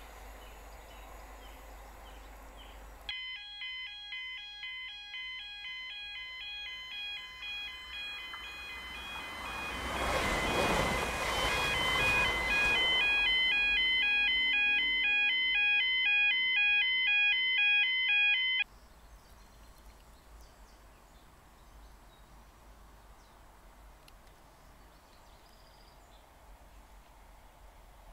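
An electric multiple-unit train passing at speed, its rushing noise swelling and peaking about ten seconds in. Over it an electronic warble of alternating tones, about two changes a second, starts about three seconds in and cuts off abruptly after some fifteen seconds.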